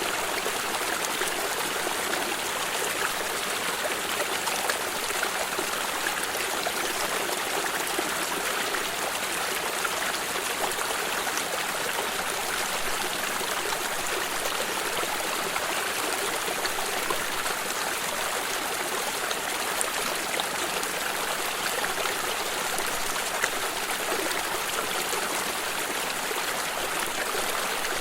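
A flowing stream running and trickling steadily over stones, an even rush of water with small splashes throughout.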